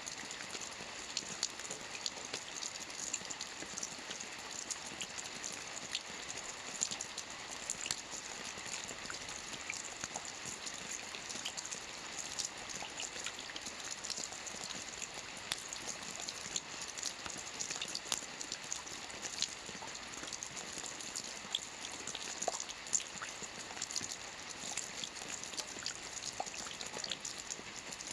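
Steady rain falling on a lake's surface, a constant hiss dotted with many small distinct drop patters.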